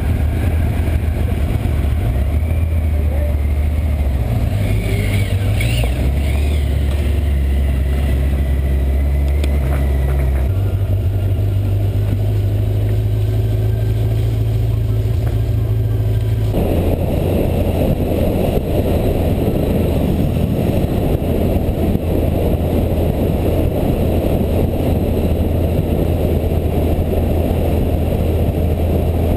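Motorcycle engine running under way. Its note shifts to a new steady pitch about ten seconds in and again a few seconds later. Wind rushes over the microphone, much heavier in the second half.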